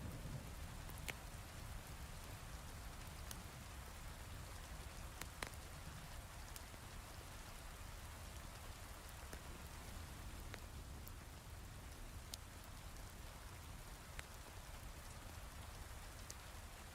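Steady heavy rain with a low rumble underneath, broken by occasional sharp single crackles from a wood fire in a fireplace.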